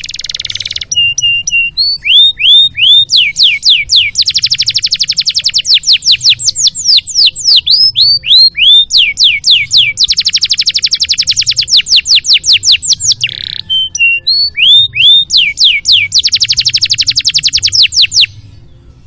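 Domestic canary singing: loud, sharp down-slurred chirps alternating with three long, fast rattling trills of about two seconds each, over a faint low hum.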